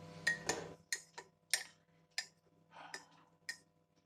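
A string of sharp clinks, each with a short ring, unevenly spaced at about one every half second, from small hard objects knocking together. There is a brief soft rustle near the middle.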